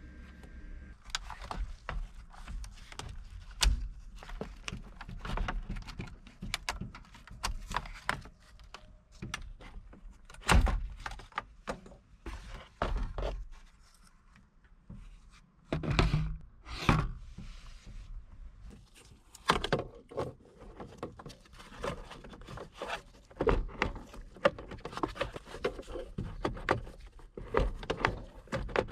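Irregular clicks, knocks and a few heavier thunks of hand work with tools and parts, scattered through the whole stretch.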